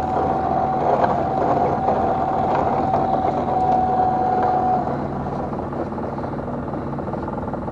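Small fishing boat's engine running steadily, with a steady high whine over it that stops about five seconds in.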